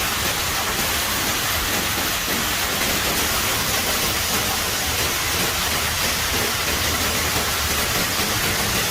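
Steady, even rushing hiss of water.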